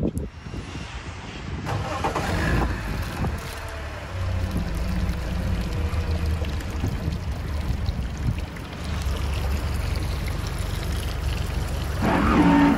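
Tohatsu MFS 140, a four-cylinder four-stroke outboard, running at low revs with a steady low rumble as it pushes the boat slowly away, with a brief louder noise near the end.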